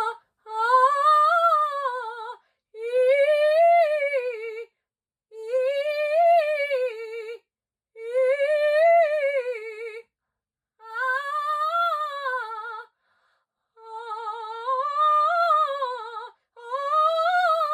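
A woman's classically trained voice vocalising an exercise: seven short phrases, each rising and falling in pitch with vibrato, separated by brief breaths. The vocalising demonstrates singing with the tongue pressed low.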